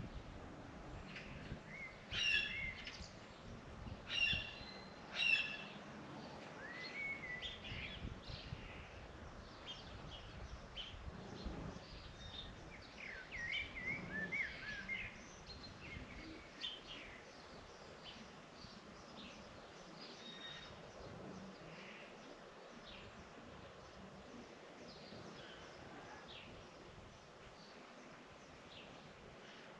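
Small birds chirping and calling: three loud calls in the first few seconds, a busy flurry of chirps midway, then fewer and fainter calls toward the end.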